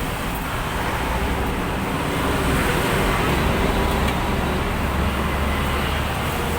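Road traffic: a motor vehicle's low rumble and tyre noise that swells over the middle few seconds and then eases, as one passes close by.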